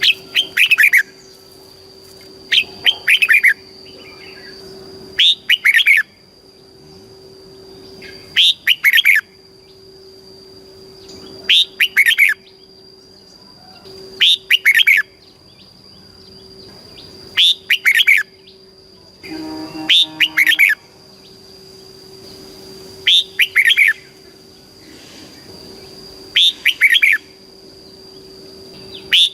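Red-whiskered bulbul singing: short, loud, warbling phrases of quick rising and falling notes, one about every three seconds. A faint steady high whine and low hum run underneath.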